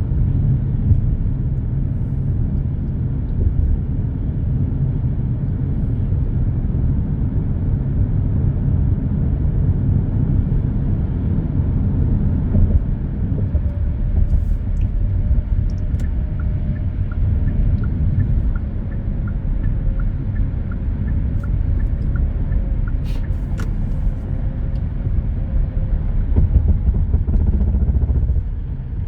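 Steady low road and engine rumble of a car driving on an expressway, heard from inside the cabin. A faint regular ticking, about twice a second, runs through the middle.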